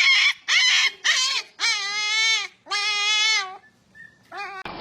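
An animal crying: a run of short cries, then two long, drawn-out cries of about a second each, with a brief call near the end.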